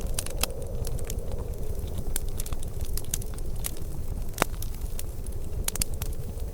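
Wood fire burning in a fireplace: irregular sharp crackles and pops over a steady low rumble, with one louder pop about four and a half seconds in.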